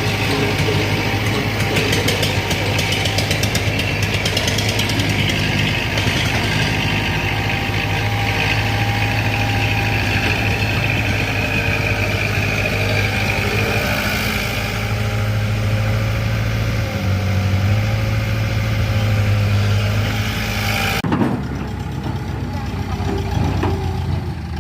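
Sonalika tractor's diesel engine running steadily, with a shift in its tone about 17 s in; a hiss over the engine stops suddenly about 21 s in.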